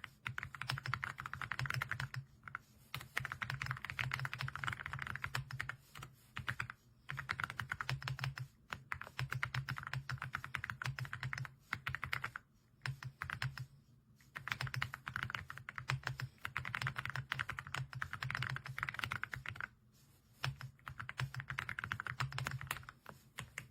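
Typing on an AULA F99 mechanical keyboard: fast, continuous keystrokes in runs of a few seconds, broken by brief pauses.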